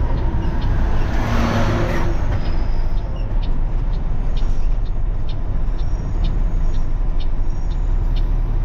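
Steady road and engine rumble heard from inside a moving vehicle's cab, with a louder rushing swell about a second in as heavy traffic passes.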